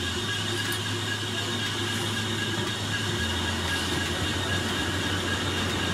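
Electric passenger train pulling into the station platform, its running noise carrying a steady low hum and a steady high whine.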